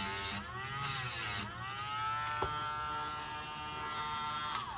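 Small handheld electric motor tool whining as it cleans and polishes a metal contact; its pitch dips twice under load in the first second and a half, then holds steady and winds down near the end.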